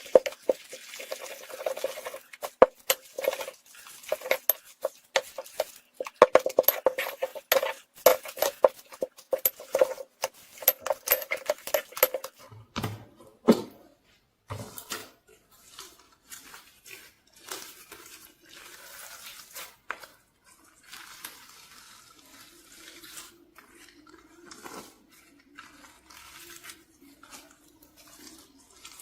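Small hard objects clicking and clattering rapidly for about twelve seconds, then a few heavier knocks, then softer, quieter handling sounds.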